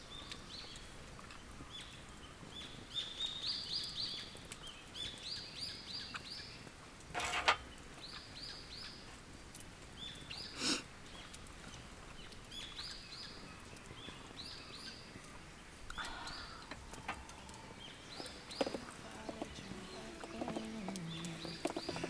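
A songbird singing repeated phrases of short, high chirps, with two sharp cracks about seven and eleven seconds in. Music fades in near the end.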